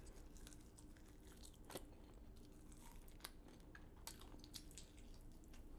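Near silence: room tone with a few faint, soft crunching clicks.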